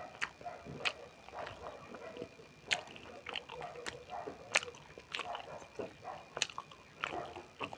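Close-up mouth sounds of a person chewing beef momo (meat dumplings): irregular wet smacks and clicks of lips and tongue, a few a second.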